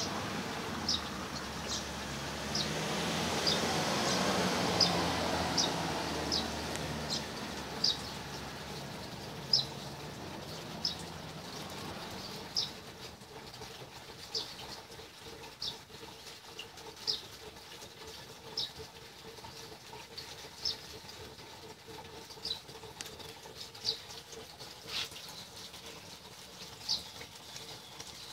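A bird chirping over and over, one short high chirp about every second, with a low rumble underneath that swells early and dies away about twelve seconds in.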